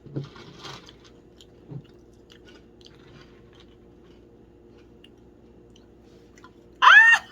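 Dry Froot Loops with marshmallows being bitten and chewed: a crunch just after the start, then faint chewing. Near the end comes a short, loud, high-pitched vocal sound.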